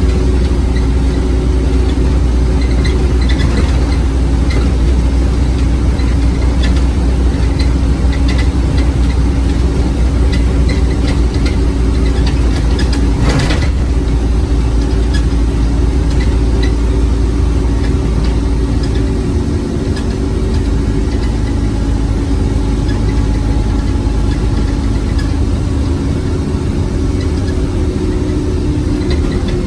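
Scania OmniCity bus's diesel engine running with a steady drone, heard from on board. A single sharp knock or rattle comes about 13 seconds in.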